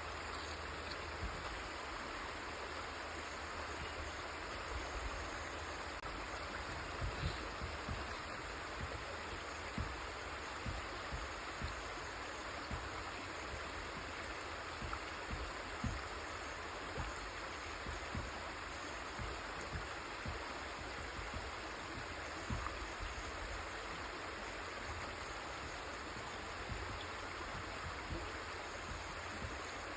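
River water flowing steadily, a continuous rushing, with brief low thumps now and then.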